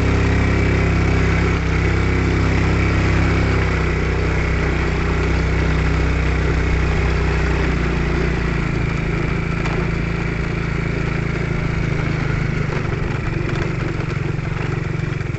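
Motorcycle engine running while riding, its note shifting and the deep part of the sound dropping away about four seconds in.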